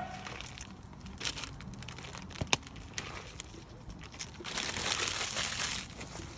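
Firewood campfire crackling, with scattered sharp pops and one louder snap about two and a half seconds in. A stretch of louder hiss rises for about a second and a half near the end.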